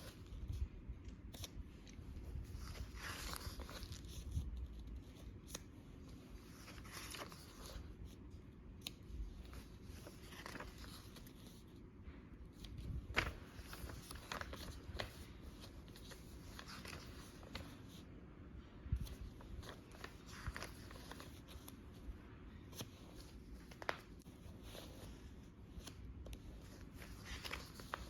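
Pages of a paper journal being turned by hand, a short rustling swish every few seconds with an occasional light tap of paper or cover.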